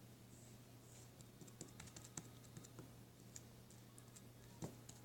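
Faint, irregular small clicks and pops of slime being squeezed and handled, over a low steady hum.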